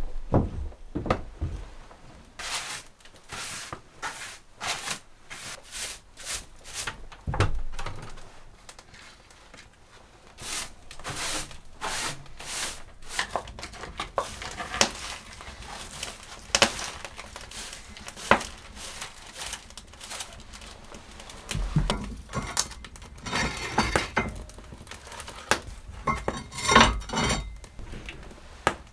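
Irregular knocks, clicks and clinks of objects being handled, with a few ringing, metallic-sounding clinks near the end.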